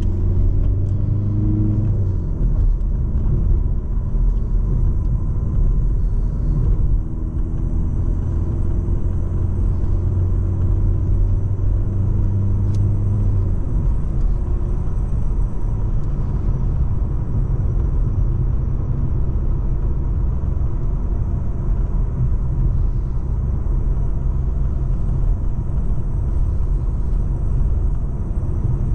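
Volkswagen Golf VII 1.6 TDI four-cylinder turbodiesel running on the road, a steady engine drone over low road rumble. The engine note drops twice, about 2 seconds in and again about halfway through.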